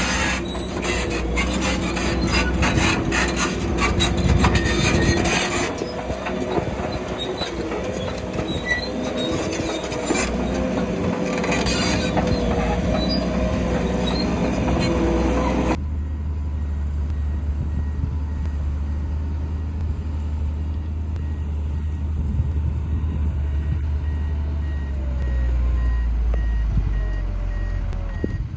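Crawler bulldozer working: its diesel engine running under load, with the steel tracks clanking and squealing. About two-thirds of the way in the sound changes abruptly to a low, steady diesel drone with faint, evenly spaced reversing beeps from a machine backing up.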